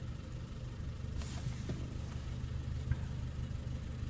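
Renault Clio 2's petrol engine idling, a steady low rumble, with a short hiss about a second in and a light click near three seconds. The owner says the engine sounds tappety and its tappets still need adjusting.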